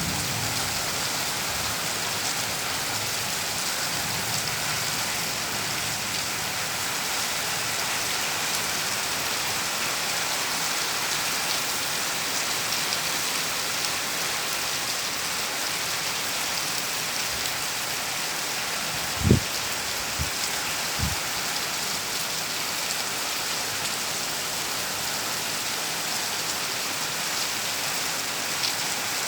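Heavy rain falling steadily. About two-thirds of the way through there is one low thump, the loudest moment, followed by two fainter ones.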